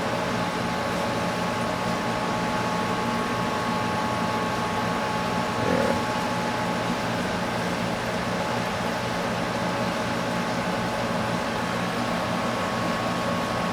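Steady machine hum of a fan or air-handling unit, with a few constant tones held throughout and a faint brief sound about six seconds in.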